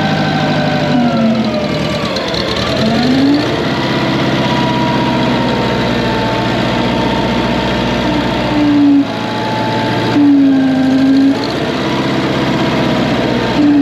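Massey Ferguson 771 skid steer's air-cooled Wisconsin 30 HP engine running, its pitch dropping for a couple of seconds as it takes load and then recovering. Short, louder whines break in a few times.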